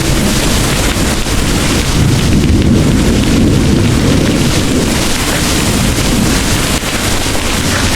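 Heavy rain pouring, with a deep rumble of rolling thunder underneath that swells in the middle and eases off toward the end.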